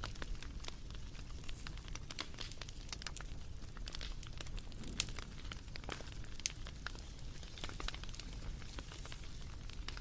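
Wood fire crackling, with irregular sharp pops over a low steady rumble; two louder pops come about halfway through.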